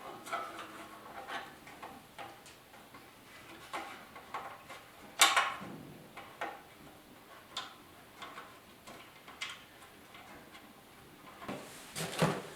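Scattered light clicks and knocks of motorcycle parts and hardware being handled during assembly, with one sharper knock about five seconds in.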